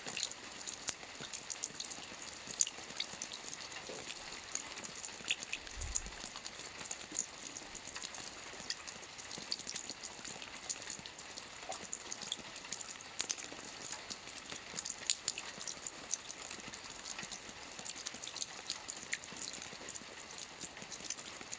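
Steady rain falling, an even hiss with many sharp individual drops striking a surface. A brief low thud sounds about six seconds in.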